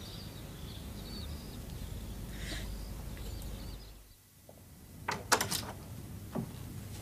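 Outdoor background with faint birdsong chirping over a steady low rumble; it drops away about four seconds in, and a few sharp knocks follow.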